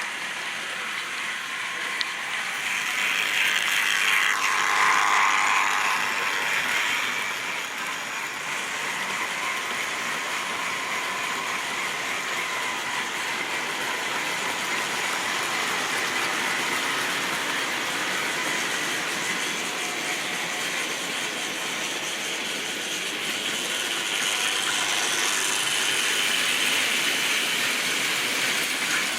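Model railway train running on its track: a steady mechanical whirr of the locomotive's motor and gears, with the wheels rattling over the rails. It grows louder as the train passes close, about four seconds in and again near the end.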